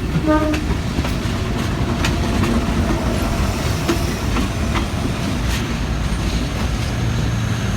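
A train running past on the tracks: a steady rumble with repeated clicks of wheels over rail joints, and the tail of a horn blast in the first half second. The sound cuts off suddenly at the end.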